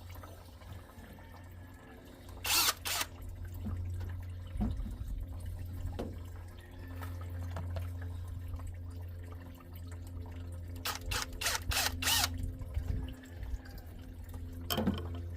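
Hand tools working on the Nissan KA24E engine during water pump removal: a couple of sharp metal clicks about two and a half seconds in and a quick run of about five clicks around eleven seconds, over a steady low hum and faint dripping of coolant.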